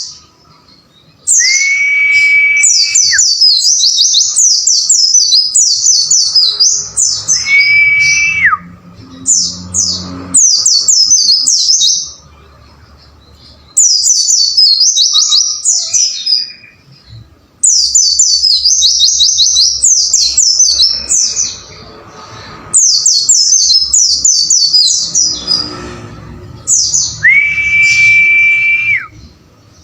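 White-eye (pleci) singing in rapid phrases of high, falling chirps, each phrase lasting a few seconds with short pauses between. Three times a steady whistled tone is held for a second or two, then drops away at its end.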